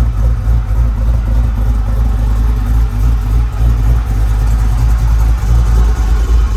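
LS 408 stroker V8 running on its first start-up, loud and uneven with a heavy low rumble. It is not yet running right: the owner puts it down to the air and fuel mixture not being set, with too much gas.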